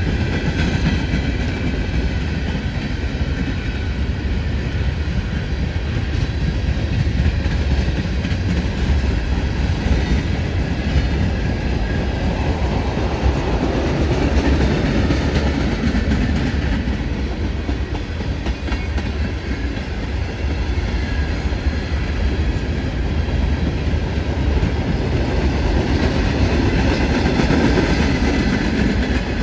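Freight cars of a mixed manifest train rolling past, a steady rumble with the clatter of steel wheels on the rails.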